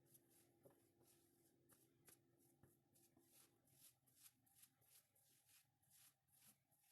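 Faint, quick rustling strokes, several a second, over a faint steady hum.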